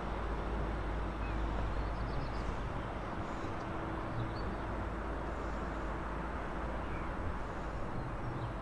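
Steady rumble of a train running by, with a few faint bird chirps about two to three seconds in.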